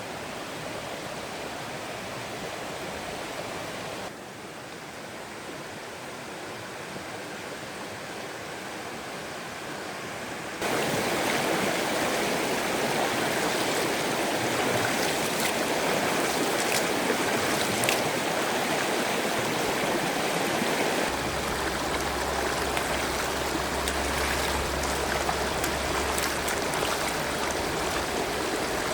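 Stream water running over rocks, a steady rushing noise that drops about four seconds in, gets much louder about eleven seconds in, and changes again about twenty-one seconds in.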